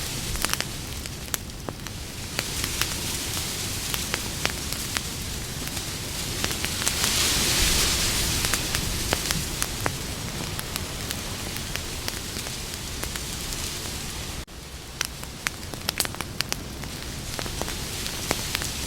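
Campfire burning, with a steady hiss and frequent sharp crackles and pops of the wood. The hiss swells about seven seconds in, and the sound drops out for an instant about fourteen and a half seconds in.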